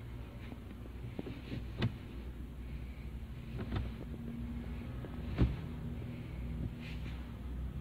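Fiat Fiorino van's engine idling, a steady low drone heard inside the cabin, with three sharp clicks or knocks about two, three and a half and five and a half seconds in.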